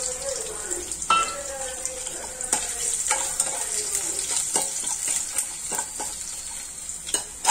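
Fenugreek seeds and garlic sizzling in hot oil in an aluminium pan, with a steady hiss, while a metal spoon stirs and scrapes, knocking against the pan in repeated sharp clicks.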